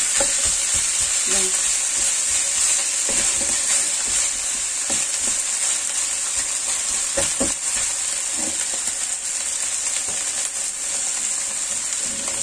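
Minced pork and chopped preserved vegetables sizzling steadily in a non-stick wok, stirred with a silicone spatula that scrapes and taps across the pan now and then.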